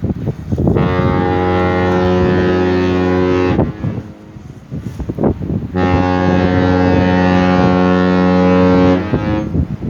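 Cruise ship Azura's horn sounding two long, deep blasts about two seconds apart as she leaves the river, with wind buffeting the microphone between the blasts.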